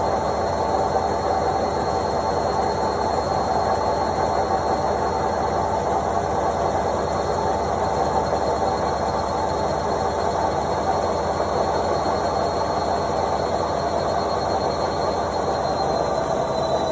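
Indesit washing machine on its spin cycle: the drum spins at speed with a steady whirring rumble and a thin high whine. Near the end the whine starts to fall in pitch.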